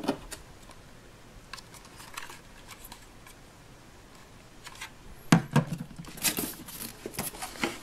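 Hard plastic clicks and knocks as a Play-Doh Ice Cream Sundae Cart toy and its cardboard box are handled and set down on a table: a few faint taps, then a cluster of louder knocks about five seconds in.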